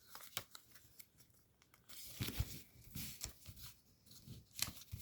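Origami paper being handled and folded, with faint, irregular crinkling and small ticks and crackles as small flaps are folded over and creased.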